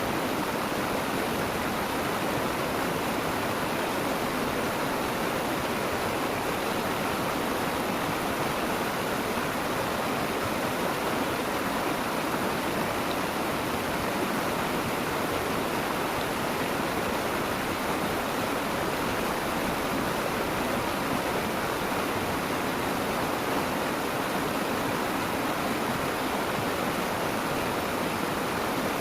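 Steady rushing of flowing water in a stream, an even noise that does not change.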